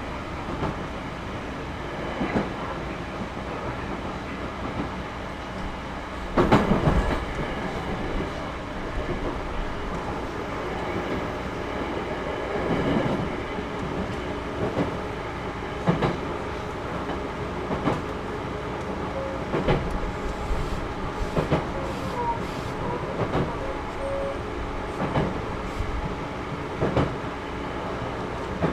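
Series 211-5000 electric multiple unit running at steady speed, heard inside the coach: a continuous rumble of wheels and running gear, with wheels clacking over rail joints about every two seconds and a louder clatter about six and a half seconds in.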